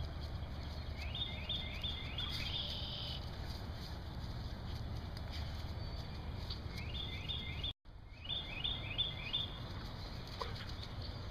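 A bird calling in runs of about four quick rising chirps, three runs in all, over a steady low background rumble. The sound drops out for an instant just before the last run.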